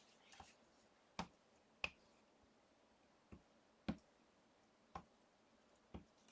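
Quiet handling of small papercraft items: about seven light, separate taps and clicks spread unevenly over six seconds, with near silence in between.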